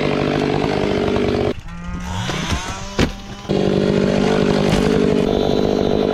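Gas chainsaw running at full throttle drops to idle about a second and a half in, its pitch falling away, with a sharp click in the lull. About halfway through it opens back up to full throttle.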